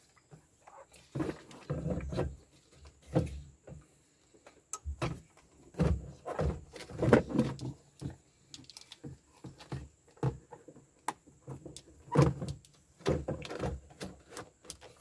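Parts being handled and fitted by hand: irregular knocks, clunks, clicks and scrapes with short pauses between them.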